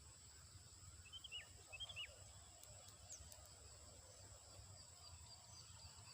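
Faint open-air ambience with a few short, high, downward-sliding bird chirps a little over a second in, under a steady thin high-pitched tone; faint rapid ticking joins in the second half.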